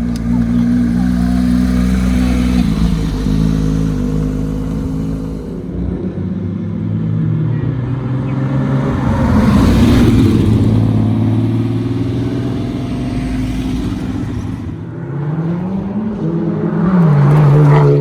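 Car engines running at a car meet, with a steady idle throughout. About ten seconds in it swells louder, and near the end one engine revs up and drops back.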